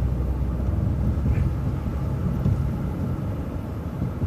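City transit bus running, a steady low engine and road rumble.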